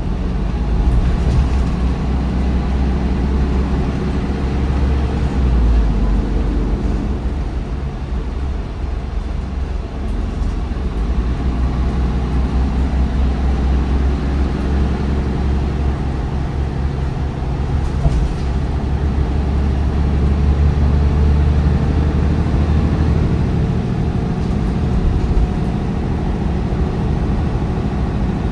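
MAN D1556LOH-10 diesel engine of a bus with a ZF Ecolife 6AP1700B automatic gearbox, running under way. Its low drone swells and eases several times as the load and engine speed change.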